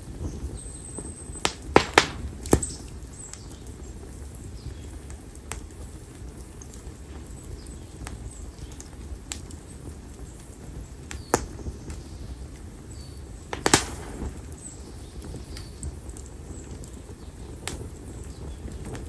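Split konara oak (Quercus serrata) firewood burning in an open bonfire, crackling with sharp pops over a steady low rumble of flame. About two seconds in comes a quick cluster of three loud pops, and another loud pop comes near fourteen seconds, with fainter ones scattered between.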